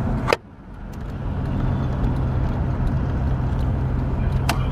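A vehicle engine running steadily with a low drone, which a listener remarks needs checking. A sharp click comes just after the start, and another near the end.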